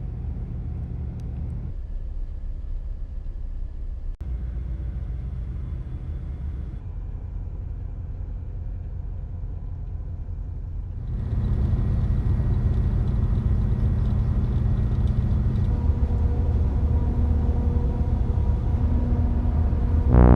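Steady low engine rumble, with abrupt changes in character about 2, 4 and 7 seconds in; from about 11 seconds in it is louder, with more hiss over the top.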